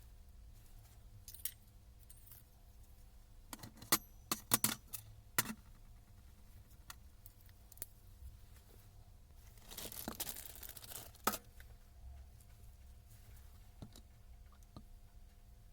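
Hard parts being handled and set down: several sharp clicks and knocks about four to five and a half seconds in, a rustle lasting about a second and a half near ten seconds in, and a few faint clicks, over a steady low hum.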